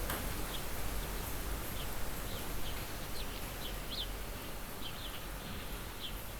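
Small birds chirping, short high falling chirps at irregular intervals, about two a second, over a steady outdoor background hiss.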